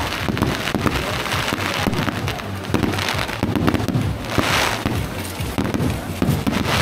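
Aerial fireworks bursting repeatedly overhead, a series of sharp bangs, with a longer spell of sparkling noise about four and a half seconds in.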